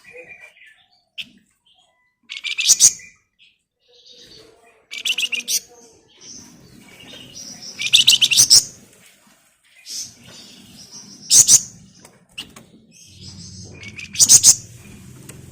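Flamboyan songbird singing in loud, rapid, shrill trilling bursts about every three seconds, with softer chirps between them.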